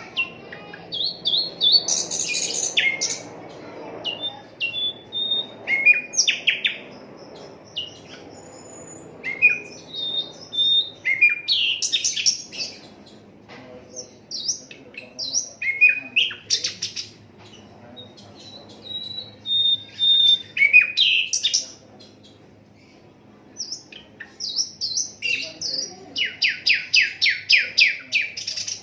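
Sikatan londo flycatcher singing: short phrases of high whistles and quick chattering notes with pauses between them, ending in a rapid run of repeated notes about four a second.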